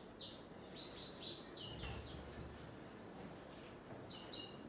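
A small bird chirping: quick high notes that each slide down in pitch, coming in short runs of two to four.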